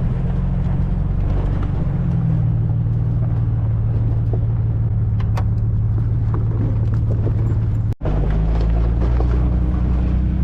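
A classic car's engine and road noise while driving, a steady low drone with a constant hum. It breaks off abruptly for an instant about eight seconds in, then carries on with a lower, deeper engine note.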